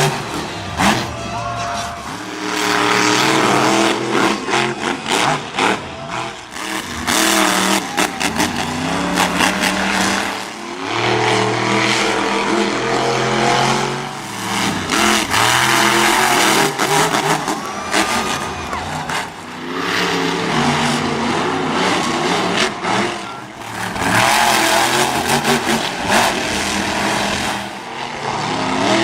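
Monster truck engine revving hard, its pitch rising and falling again and again, with a few sharp knocks.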